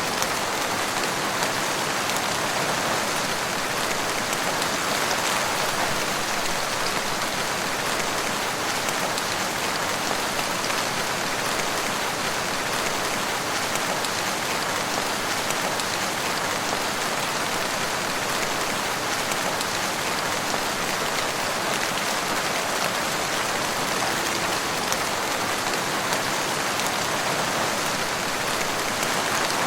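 Steady rain falling in a forest, an even dense patter of drops with no break or change.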